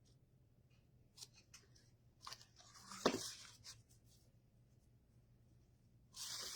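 Faint handling sounds of satin ribbon being folded into bow loops: scattered light rustles and clicks, one sharper click about three seconds in, and a louder rustling starting near the end.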